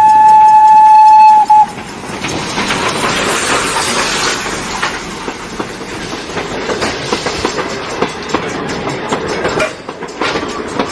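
A train whistle sounds one long steady note that cuts off about a second and a half in. It gives way to the rumble and rhythmic clatter of a train running on the rails.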